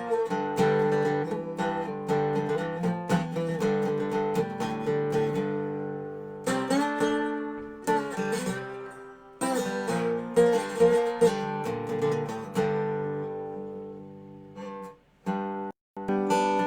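Dobro resonator guitar played with a bottleneck slide: strummed blues chords that ring and die away, breaking off briefly near the end before starting again.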